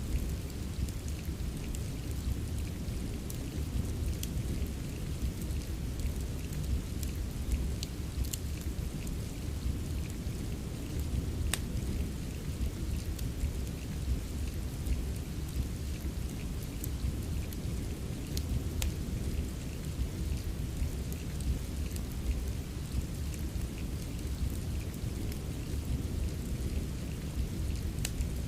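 Steady rain ambience with a constant low rumble, mixed with the scattered sharp crackles and pops of a wood fire.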